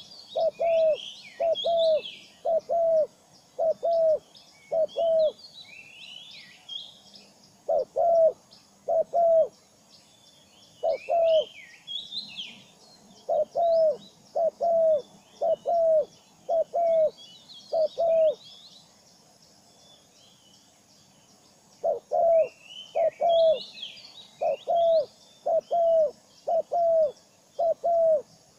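Bird calls: a short, low, arched note repeated about every three-quarters of a second in runs with pauses, over higher twittering chirps in scattered clusters.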